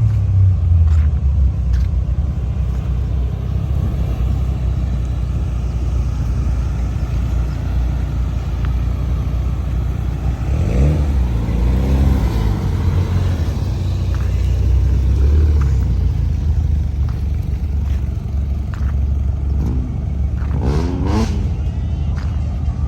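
Car engines running with a heavy, steady low rumble. Pitch rises and falls twice, about halfway through and again near the end, like an engine revving or a car passing close by.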